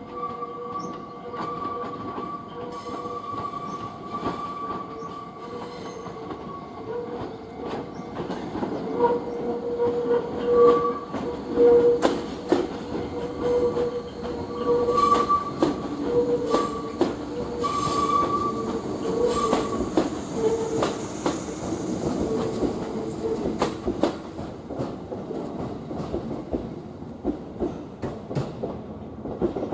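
An electric train rolling slowly over curved track and switches. Its wheels give a wavering squeal that breaks in and out. From about nine seconds in, the wheels clack over the rail joints and switch crossings, and the clacks thin out near the end.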